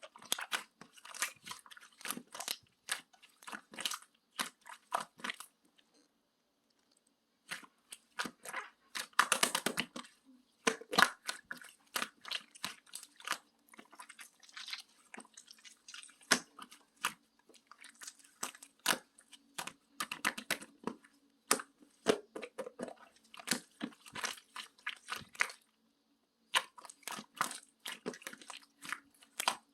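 Slime being pressed and stretched by hand, giving dense runs of sticky clicks, pops and crackles. There is a pause of about a second around six seconds in and a shorter one near the end.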